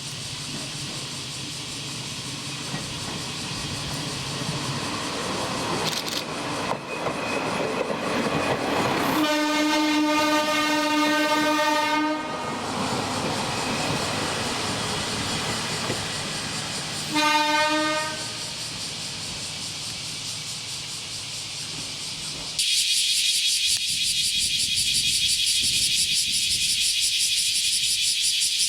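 Diesel railcar running past and sounding its horn: one long blast of about three seconds, then a short blast about five seconds later. About 23 s in, the sound cuts suddenly to a loud, steady high-pitched hiss with a fast flutter.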